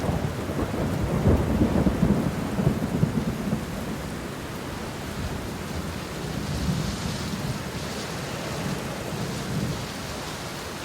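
Steady heavy rain, with a low rumble of thunder about a second in that fades after a few seconds.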